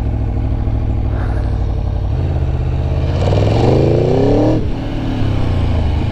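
Aprilia Tuono V4 1100 Factory's V4 engine running at low revs. About three seconds in, the revs climb in a rising pitch for about a second and a half as it accelerates, then drop back sharply to a steady low note.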